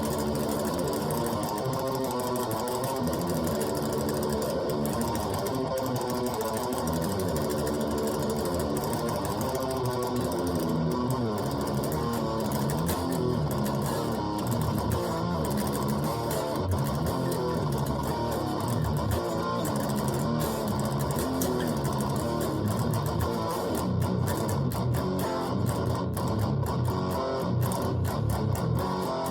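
Guitar being played without pause, a steady stream of notes moving up and down.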